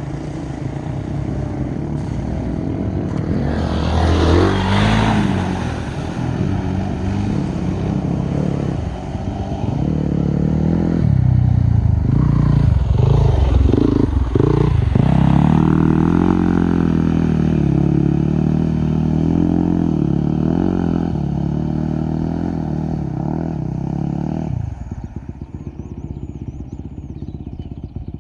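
Dirt bike engine running under way, its pitch rising and falling as the throttle is worked, loudest through the middle; about 25 seconds in it drops back to a quieter, fast putter.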